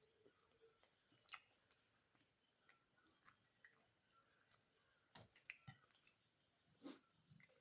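Faint, scattered mouth clicks and smacks of someone chewing a mouthful of beef biryani. There are short sharp clicks about every second, with a small cluster about five seconds in.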